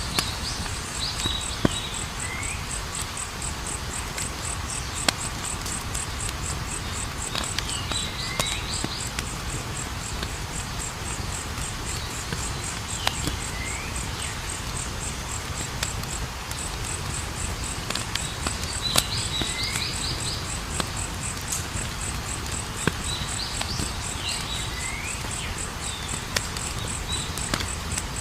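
Campfire burning, with a steady low rush and scattered sharp crackling pops. Crickets chirp in a fast, even pulse throughout, and a short animal call recurs about every five seconds.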